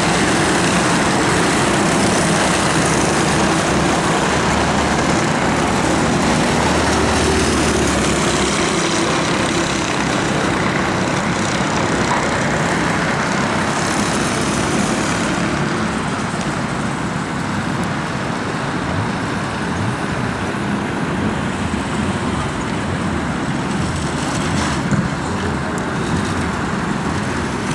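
Several mini sprint race cars' engines running around a short oval track just after the chequered flag, in a steady blended drone that grows a little quieter after about ten seconds.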